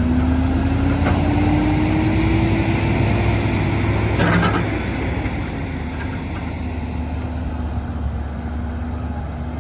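Heavy machine's diesel engine running with a deep, steady rumble, a whine rising slowly in pitch over the first few seconds, and a short metallic clank about four seconds in.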